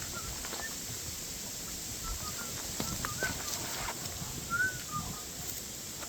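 Scattered short bird chirps, with a few light clicks and a steady hiss underneath.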